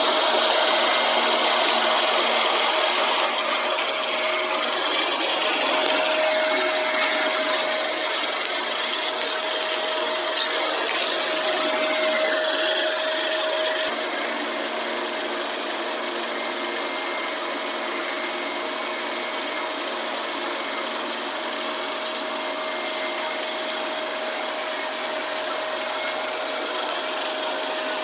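Shark vacuum cleaner running steadily with a whine, sucking up crunchy debris that crackles and ticks through the hose. The sound drops a little in loudness about halfway through.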